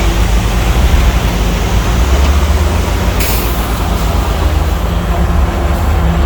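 Heavy diesel earthmoving machinery, bulldozer and dump truck engines, running with a steady low rumble, with a brief hiss about three seconds in.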